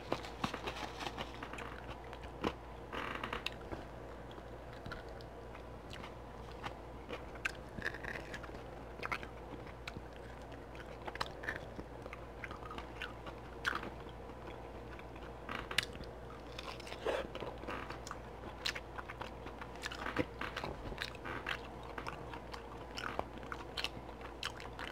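A person chewing and biting into sauce-glazed barbecued beef ribs, with many short, irregular wet mouth clicks and smacks.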